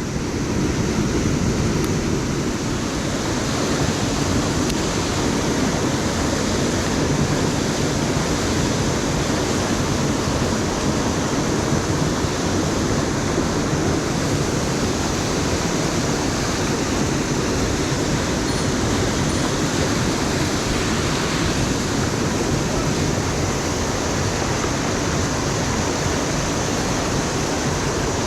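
The steady rushing of a mountain headwater stream, an even hiss that does not change.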